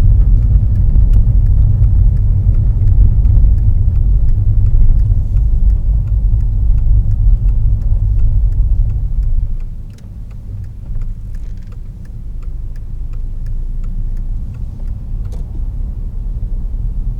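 Car driving, heard from inside the cabin: a steady low rumble of engine and road noise that drops noticeably a little under ten seconds in.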